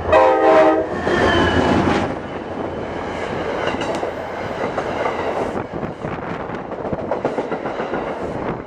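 Commuter train passing close by: the end of a horn blast under a second in, then a steady rush with wheels clattering over the rails.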